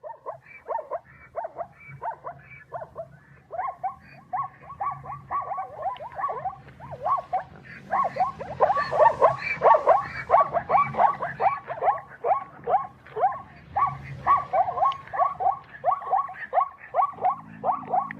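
A chorus of animal calls: many short cries, each falling in pitch, come in quick succession and overlap, growing louder and denser about eight seconds in.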